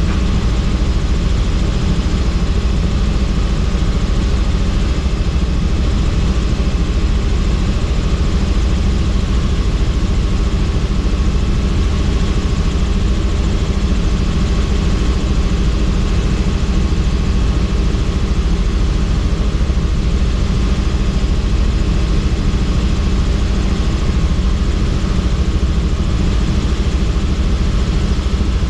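Helicopter in flight: a steady, loud drone of rotor and engine with a few constant tones and no change in pitch.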